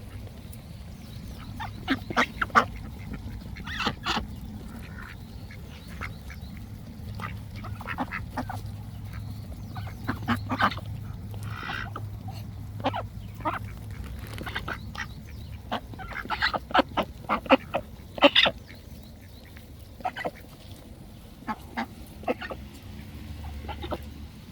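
Ducks quacking in short runs of calls, loudest in bunches a couple of seconds in and again past the middle, over a steady low hum.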